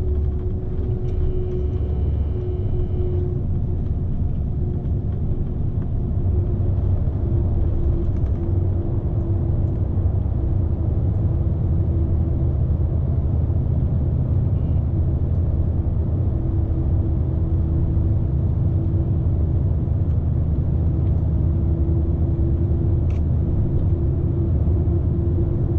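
Scania S520 truck's V8 diesel and road noise heard inside the cab while driving: a steady low rumble with a constant hum over it.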